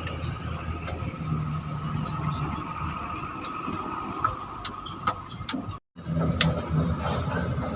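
Truck engine idling steadily, with a steady high-pitched tone above the low hum. The sound cuts out for a moment about six seconds in, then resumes with a few sharp clicks.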